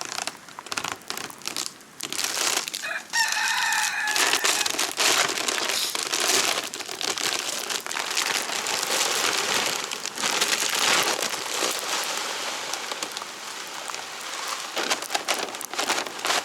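Chicken feed poured from a bag into a feed barrel: a steady rushing hiss of grain running for several seconds, easing off near the end. Just before it, about three seconds in, a chicken calls once.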